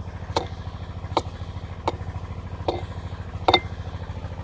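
A sawmill's engine runs steadily with a fast low pulsing, while six sharp knocks land at about three-quarters of a second apart, the last one the loudest.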